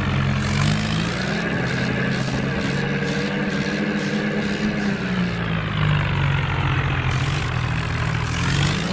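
Diesel tractor engine running hard under load during a tractor tug-of-war, its note dipping and climbing again as the load changes.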